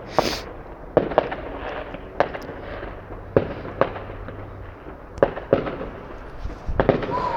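Fireworks going off all around: about a dozen sharp bangs at uneven intervals, some in quick pairs, over a steady crackling haze, with a short whistle near the end.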